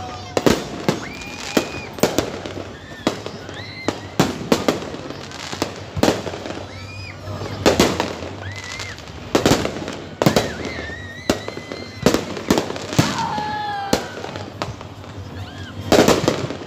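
Aerial fireworks shells bursting overhead in a rapid, uneven string of sharp bangs, about two a second.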